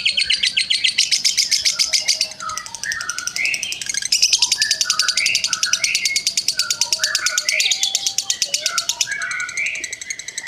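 Labet bird singing: a fast, high, rattling trill of about a dozen notes a second, mixed with shorter, lower chirping notes. The trill fades around two seconds in and comes back strongly about four seconds in.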